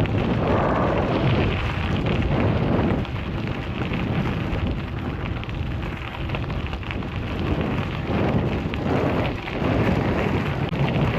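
Rumbling wind and road noise on a GoPro's microphone while cycling, a continuous rough noise that swells and eases a few times.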